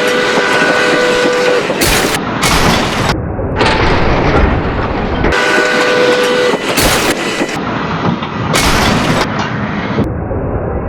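Train sound effects: a train horn chord sounds twice, the first blast ending about a second and a half in and the second starting about five seconds in and lasting just over a second, over a steady rumbling, hissing train noise that changes abruptly at several cuts.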